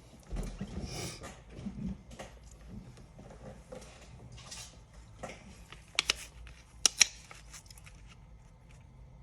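Handling noises at a workbench: light rustles and small taps, with two sharp clicks about six and seven seconds in.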